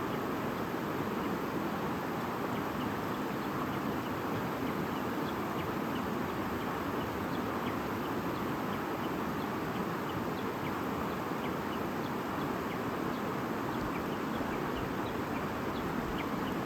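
A babbling stream running steadily, with small high splashes and trickles sprinkled through it.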